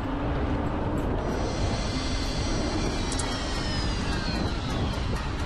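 Steady low rumble and wind noise on a fishing boat at sea. From about a second in, a high whine made of several tones slowly falls in pitch.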